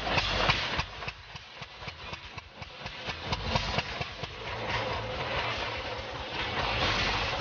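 1939 Bullet motorcycle engine running unevenly, with irregular pops and ticks for the first few seconds. It then settles into a steadier run that grows louder toward the end.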